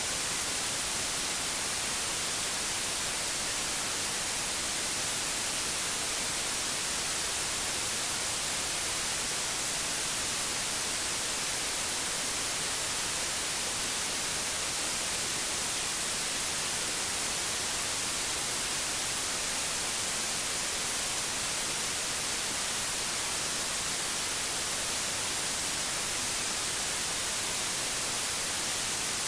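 Synthetic white noise: a steady, unchanging hiss, strongest in the treble.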